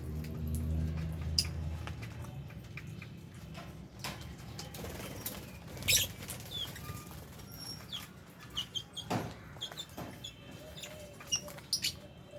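Pet lovebirds and budgies moving about in an aviary: wing flutters and scattered sharp knocks, with short high chirps coming thicker in the second half. A low rumble runs under the first two seconds.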